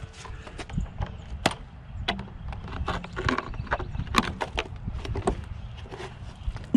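Irregular light clicks, knocks and scrapes of hands working on a scrapped water heater's metal parts and fittings, over a low steady rumble.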